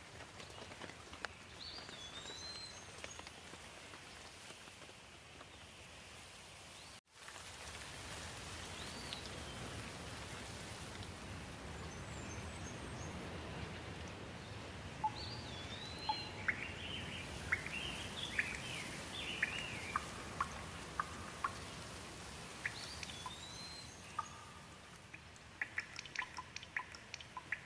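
Steady rain falling, with birds calling over it: one swooping, whistled phrase recurs several times, with other chirps in between. The sound cuts out completely for a moment about seven seconds in, and near the end close, irregular drips tap over a quieter rain.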